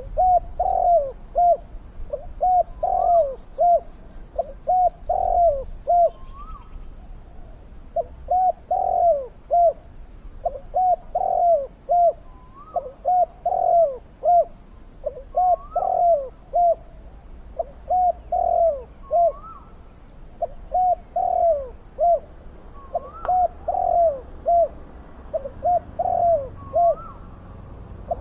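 Spotted doves cooing over and over, each phrase a quick run of short, falling coo notes, a phrase every couple of seconds, with a brief higher note breaking in now and then.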